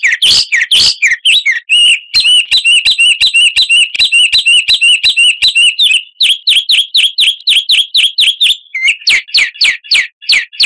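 A songbird singing loud, rapid runs of repeated chirping notes. The phrase changes every few seconds: a fast trill, then sweeping notes, then a series of falling notes. It is a bird-song lure recording played to get caged birds to sing.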